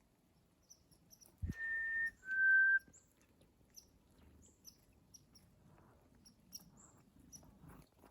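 A person whistling an imitation of the black-capped chickadee's two-note 'fee-bee' song about a second and a half in: a clear higher note, then a slightly lower one, after a soft thump. Faint high chips of small birds sound throughout.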